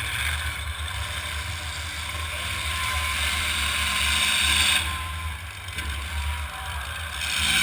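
Demolition derby cars' engines running with a steady low rumble and a wash of arena noise.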